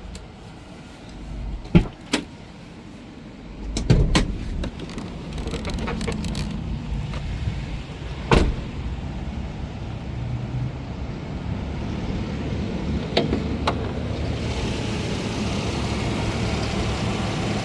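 Chevrolet Express 3500's 6.6-litre gas V8 starting about four seconds in, after a few clicks, then idling steadily.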